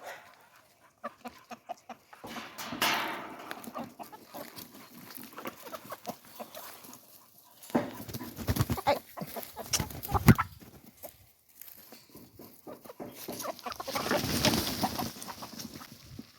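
Chickens clucking, with scattered knocks and two longer rushing noises, one about three seconds in and one near the end.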